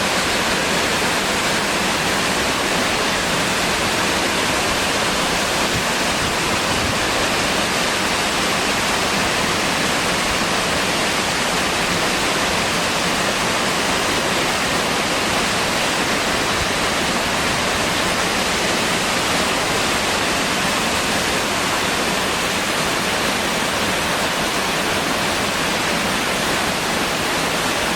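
Waterfall pouring into its pool, a loud, steady rush of falling water.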